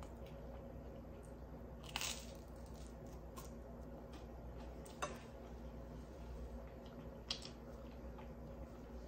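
A bite into crunchy toast and chewing: one sharp crunch about two seconds in, then fainter crunches and clicks, over a steady low hum.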